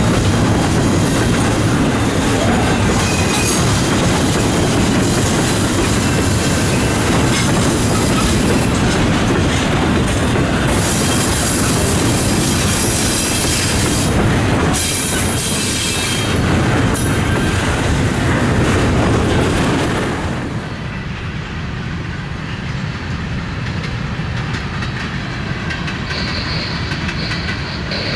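A train passing, with the steady noise of its wheels rolling on the rails; the noise drops noticeably about twenty seconds in.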